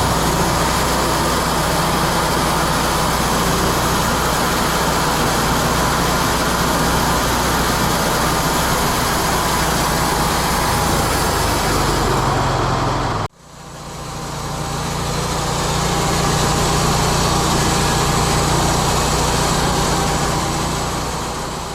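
Wood-Mizer LT40 Hydraulic band sawmill running: a steady engine drone under a hiss that reaches high up. It cuts off abruptly about 13 seconds in, then fades back in and holds steady.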